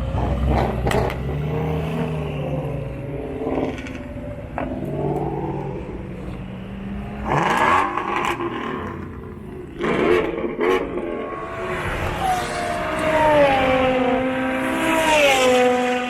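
Cars accelerating hard as they make passes, engines revving up. Two loud surges come partway through, and near the end one engine climbs in pitch and steps down as it shifts gear.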